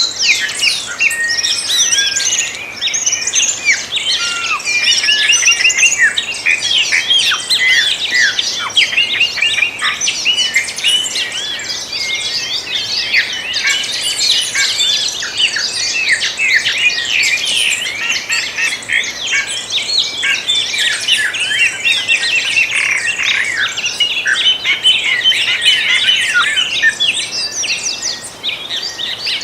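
Dawn chorus: many songbirds singing and chirping at once in a dense, continuous tangle of quick high chirps and trills.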